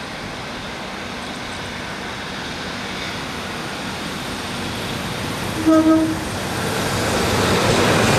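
Class 153 single-car diesel multiple unit running up and past along the platform, its engine and wheel noise growing louder as it nears. About five and a half seconds in it gives one short horn blast, about half a second long and the loudest sound here.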